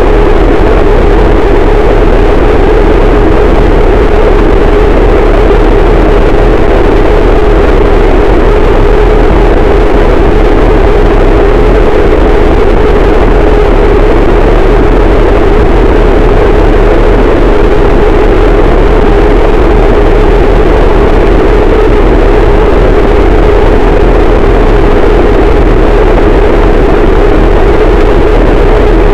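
Harsh noise wall: a loud, unchanging wall of distorted static, densest in a band in the low-mids, with a heavy rumble underneath.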